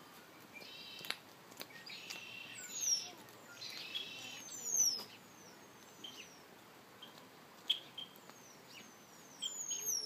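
Songbirds singing: buzzy, rattling phrases in the first half, high whistled notes sliding downward several times, and short chip notes scattered throughout.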